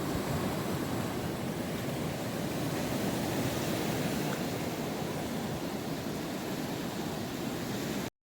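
Steady rush of ocean surf with some wind, cutting off suddenly near the end.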